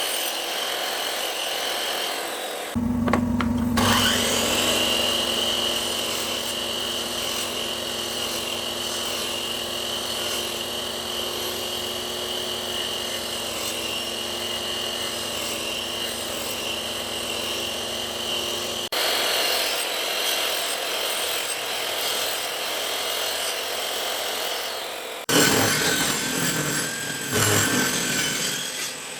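Power tools working wood, scraping and cutting. A motor runs at a steady pitch from about three seconds in to about nineteen seconds, and the sound changes abruptly at those points and again about twenty-five seconds in.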